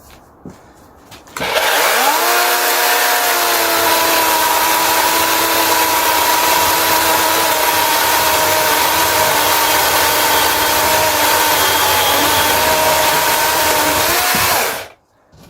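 DeWalt 18 V cordless chainsaw's electric motor spins up with a short rising whine about a second and a half in, runs steadily at full speed while cutting a log, and stops suddenly near the end.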